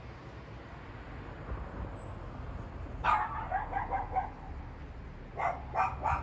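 A dog barking: a quick run of barks about three seconds in, then several short barks near the end, over a low steady rumble of traffic.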